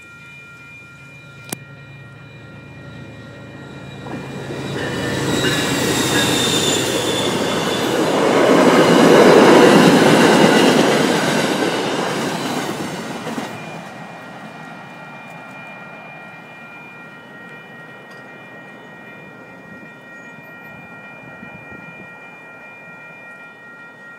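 MBTA commuter rail train passing over a road grade crossing. Its wheel and rail noise builds from about four seconds in, is loudest a few seconds later and fades away. Through it all the crossing signal bell rings steadily.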